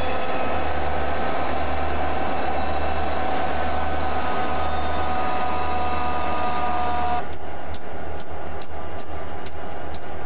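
Diesel-hauled freight train passing, with a low rumble and a steady, high-pitched squeal of several tones that cuts off suddenly about seven seconds in. After that, sharp clicks come about twice a second, typical of wheels over rail joints.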